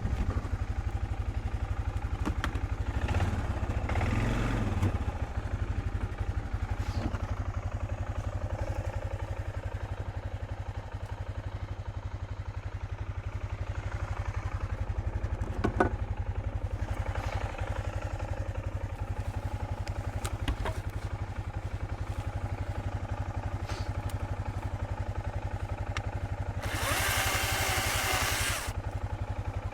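A small engine idling steadily, with a few sharp clicks and a noisy burst about two seconds long near the end.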